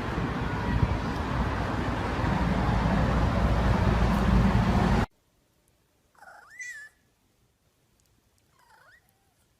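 A loud, rough noise for about five seconds that cuts off suddenly, then a cat meows once, its pitch rising and falling, and gives a fainter short meow near the end.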